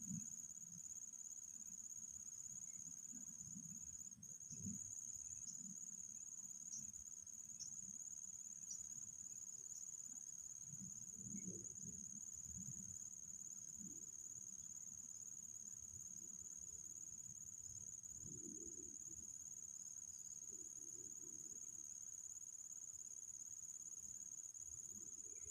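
A steady, unbroken high-pitched insect drone, a cricket or cicada, with faint low rumbles coming and going beneath it.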